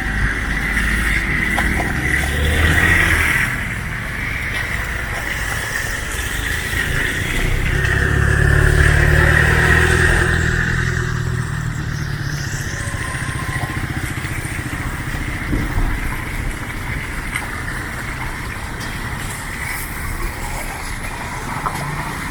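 Street traffic with motor vehicles passing. Two louder passes build and fade, one peaking around 3 seconds in and a longer one around 9 seconds, over a steady background of traffic noise.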